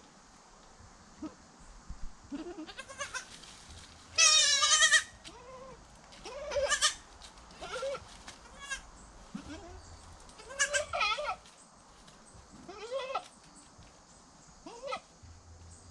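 Goats bleating: about six separate wavering calls, the loudest and highest-pitched one about four seconds in, the rest softer and lower.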